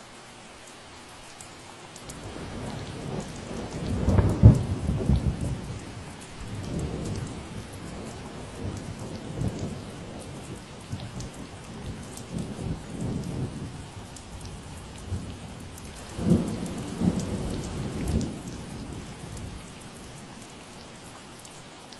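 Steady rain falling, with a long roll of thunder rumbling low underneath. The thunder builds about two seconds in, is loudest a few seconds later, swells again in a second cluster of peaks near the end, then fades out.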